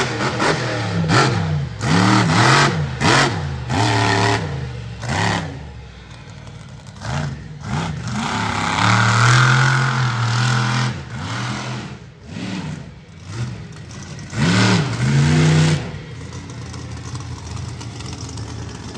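A monster truck's supercharged V8 engine revving hard again and again, its pitch surging up and dropping off, with one long high run through the middle. Over the last few seconds it settles to a lower, steadier note.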